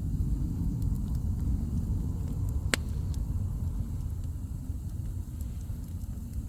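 Wood bonfire crackling, giving a few sharp pops, one louder than the rest about three seconds in, over a steady low rumble.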